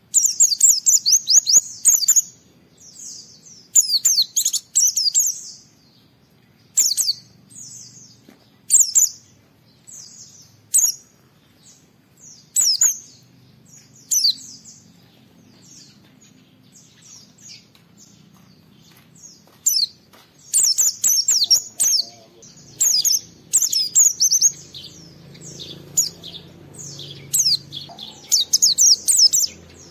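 White-eye (pleci) singing its rapid, high-pitched twittering song in repeated short bursts. The phrases come thick and loud at the start and again in the last third, with sparser, quieter phrases in between.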